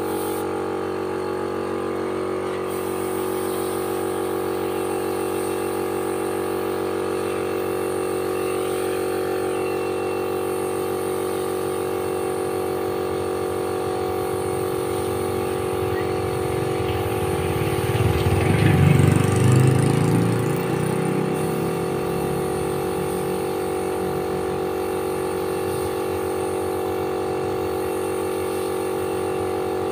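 A machine's motor or engine running with a steady, even hum. A louder low rumble swells and fades about two-thirds of the way through.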